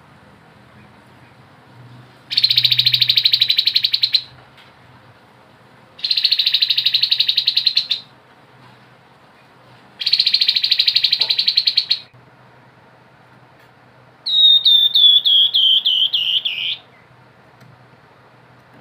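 Tepus kepala abu, a babbler, singing: three rapid trills of about two seconds each, then a run of about nine quick downslurred notes that fall in pitch.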